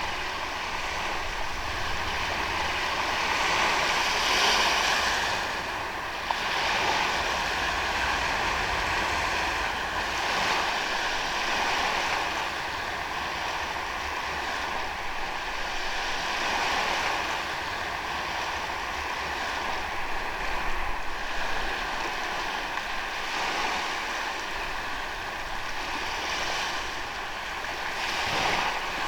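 Ocean waves washing onto a sandy beach, the surf swelling and ebbing every few seconds. A faint steady high tone runs underneath.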